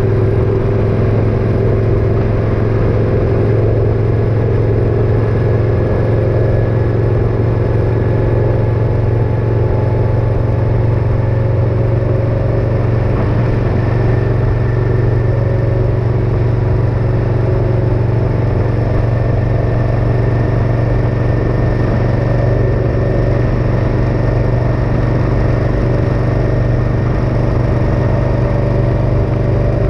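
Motorcycle engine running steadily at a constant pitch, with no change in speed.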